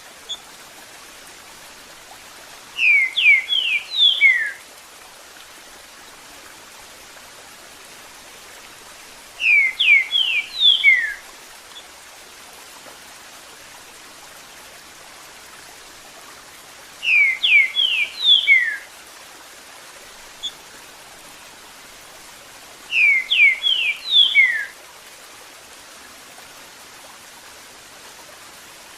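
Green-winged saltator (trinca-ferro) singing its 'Eu sou terrível' song: four short phrases of quick, clear whistled notes, one about every six to seven seconds, over a steady hiss of running water.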